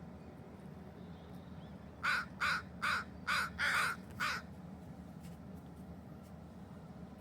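A crow cawing six times in quick succession, about two and a half calls a second, the fifth call a little drawn out, over a faint steady low hum.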